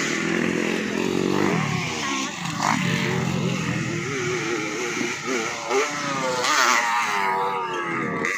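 Motocross motorcycle engines revving up and down, several at once, their pitch rising and falling as they run.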